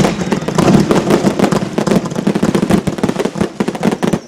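200-gram consumer firework cake going off: a dense, continuous crackle of many small pops and bangs a second, with no pause.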